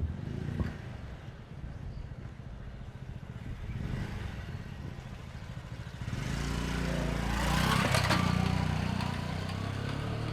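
A motor vehicle drives past, building from about six seconds in to its loudest near eight seconds and then fading, its engine pitch dropping as it goes by. Wind buffets the microphone with a low rumble throughout.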